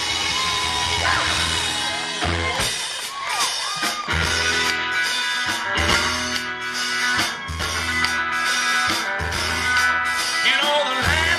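Live rock and roll band playing: electric guitar over bass and drum kit, with a steady beat.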